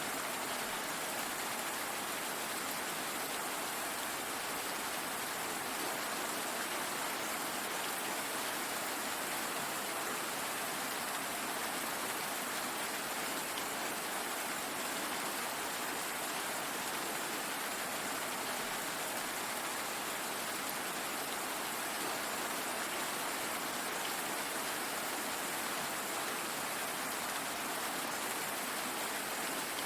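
Steady rain falling: an even, unbroken hiss of many drops, with no thunder and no change in strength.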